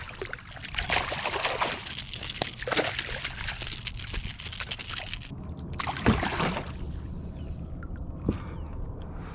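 Water splashing and trickling right beside a kayak, with one sharper splash about six seconds in.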